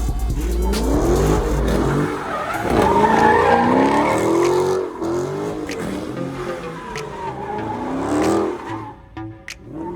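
Car tires squealing with a wavering pitch as a car slides, its engine revving underneath; the squeal is loudest a few seconds in and dies down near the end.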